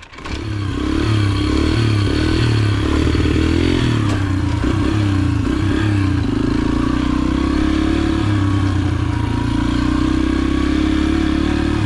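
Yamaha TT-R125's four-stroke single-cylinder engine running under throttle. It gets louder over the first second, then holds with small rises and falls in pitch as the throttle varies.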